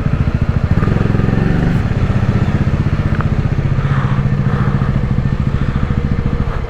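Bajaj Dominar 400's single-cylinder engine idling with a steady, even pulse, rising briefly about a second in.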